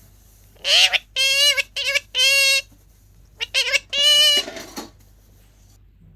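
Sun conure vocalising: a string of about six short, pitched calls in two bursts, the last trailing off into a breathy, rough note, then it falls quiet.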